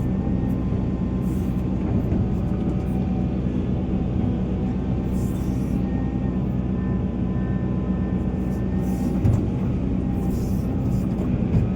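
Volvo EC480 excavator's diesel engine running steadily under working load, with a short thump about nine seconds in.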